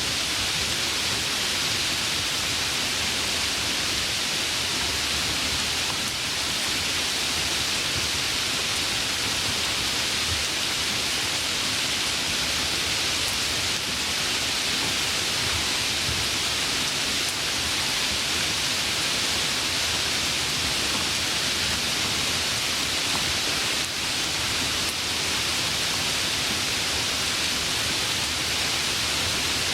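Steady, continuous rain with an even hiss and no single drops standing out.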